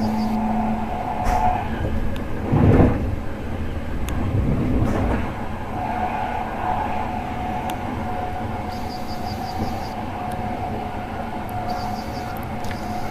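VR InterCity2 passenger train running on the rails: steady running noise with a thin steady whine. A louder rumble about two and a half seconds in, and short runs of rapid faint high ticks near the end.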